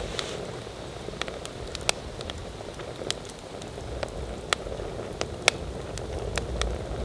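Campfire crackling: a steady hiss with sharp pops at irregular times, a few of them loud.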